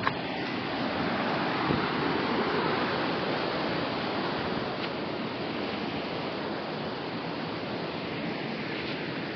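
Steady rush of water, with a sharp click at the very start and a soft knock a couple of seconds in.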